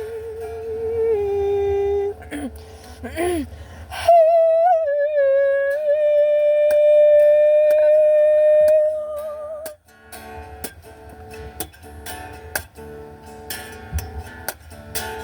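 A wordless sung melody of long held notes with vibrato, the longest held steady for about six seconds, then after about ten seconds the voice drops out and an acoustic guitar is plucked alone.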